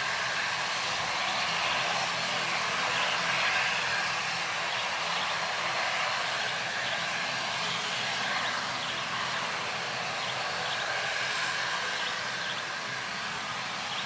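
Jet airliner engines heard as a steady rushing noise, swelling slightly a few seconds in and easing off a little later.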